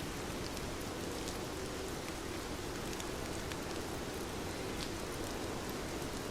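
Steady rain falling on a surface, an even wash with scattered individual drop ticks.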